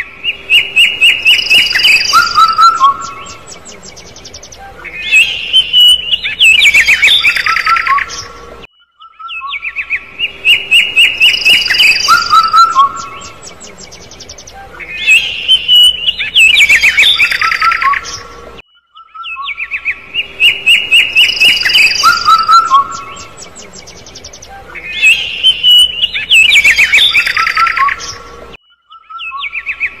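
Young bird chirping: loud runs of rapid high chirps mixed with short whistled notes. The same sequence repeats about every ten seconds, with a brief silent break between repeats.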